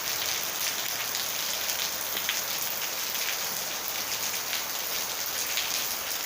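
Steady rain falling: an even hiss with many small, sharp drop ticks throughout.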